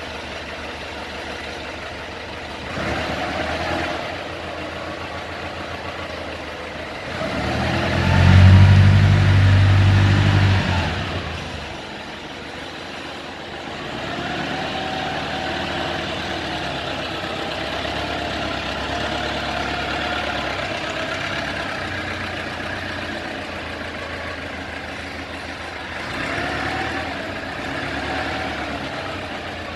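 Daewoo G25S forklift's propane engine running and revved up several times. The biggest rev comes about eight seconds in and lasts about three seconds before the engine drops back toward idle.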